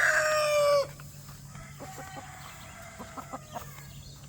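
A rooster's crow ending about a second in on a long held, slightly falling final note, followed by quieter scattered chicken clucks.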